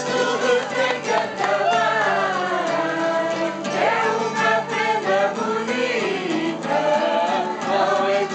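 A group of voices singing together over instrumental accompaniment with a steady low tone underneath.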